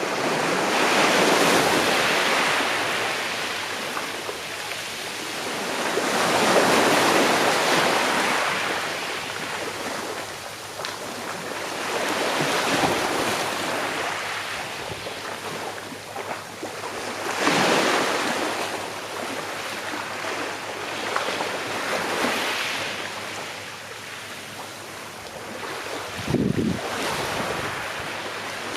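Small sea waves breaking and washing up a shore, each surge swelling and fading every five seconds or so, with a sharper splash near the end.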